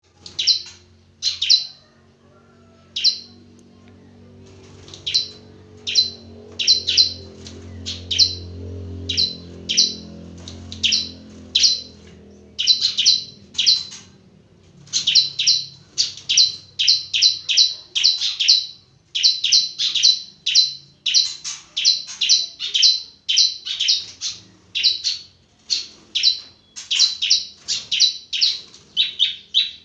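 Bar-winged prinia (ciblek) chirping: short, sharp, high calls, spaced out at first, then coming quickly, two or three a second, from about halfway through.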